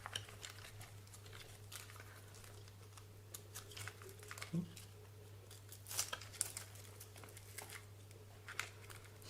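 Faint scattered clicks and light rustling from small plastic RC car parts being handled on a bench, over a steady low hum.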